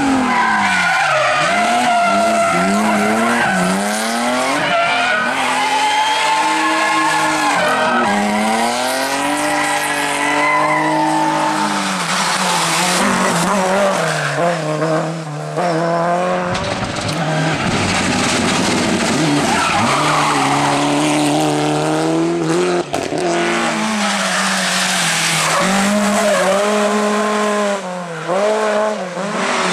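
Rally car engines revving hard, their pitch climbing through gear changes and dropping off again and again. In the middle there is a long stretch of rushing tyre and road noise, with tyres skidding.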